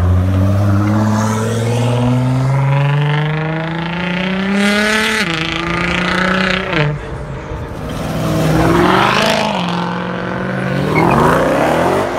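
Performance cars accelerating hard, one after another. The first engine's pitch climbs steadily for about five seconds and drops at two gear shifts. Two more cars rev up and sweep past later on.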